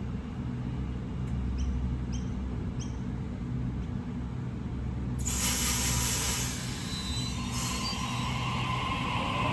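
A train running through a station: a steady low rumble, three short high chirps early on, a sudden loud rush of hiss about five seconds in and a shorter one a couple of seconds later, then a high wheel squeal building near the end.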